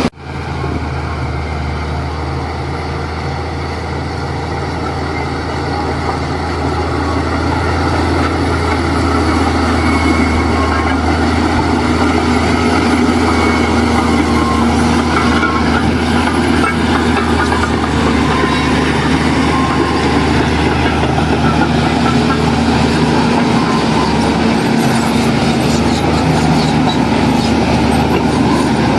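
Heavy diesel engine of earthmoving machinery running steadily under work, growing somewhat louder over the first several seconds.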